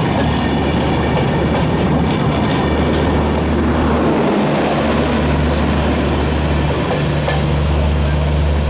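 Passenger train rolling past on the rails as it pulls out of the station, a continuous rumble with a steady low hum under it. Brief high wheel squeals come about three seconds in and again near the end.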